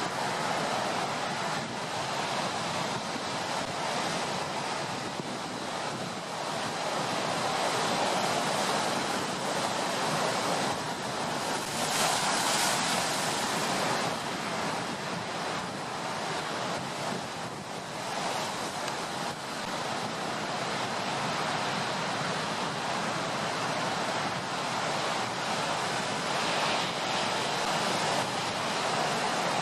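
Rough storm surf: waves breaking and washing in a continuous rushing noise that swells and falls every few seconds, with wind. A bigger wave crashes about twelve seconds in.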